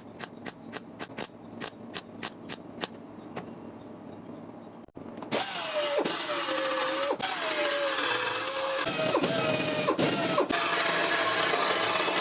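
A run of short sharp ticks, about three a second, then about five seconds in a power grinder starts on metal. It runs with a loud hiss and a whine that sags as it is pressed into the work and recovers, cutting out briefly a few times.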